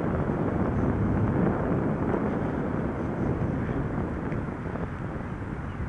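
Wind buffeting the microphone while riding a bicycle: a steady low rumble that eases a little toward the end.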